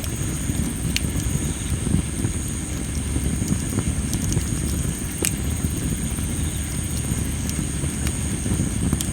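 Tree-of-heaven (ailanthus) wood burning in a campfire, crackling with a few sharp pops, the loudest about five seconds in, over a steady low rumble. Insects trill steadily and high in the background.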